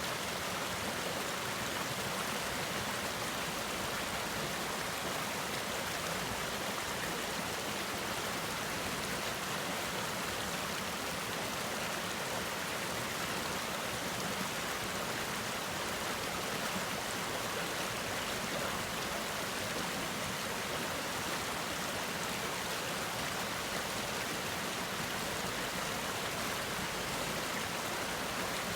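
Mountain valley stream running over rocks: a steady, unbroken rush of water.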